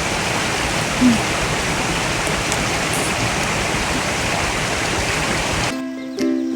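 Steady rushing of a valley stream's flowing water, cut off abruptly near the end by ukulele background music.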